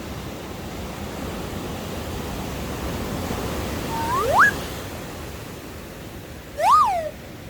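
Heavy surf breaking on the shore, a steady loud wash. About four seconds in a short whistle-like tone slides sharply upward, and near the end a second one rises and falls.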